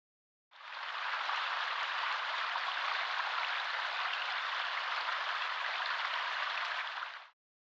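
A steady, even hiss like rain, starting suddenly about half a second in and cutting off abruptly near the end.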